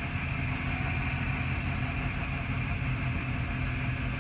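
Grain truck engine running steadily: a continuous low drone with an even higher hiss over it.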